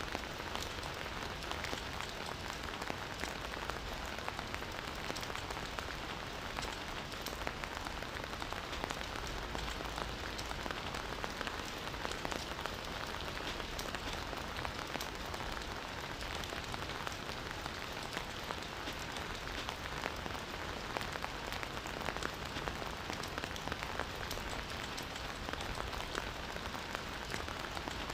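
Steady rain: an even hiss with many sharp individual drop hits scattered through it.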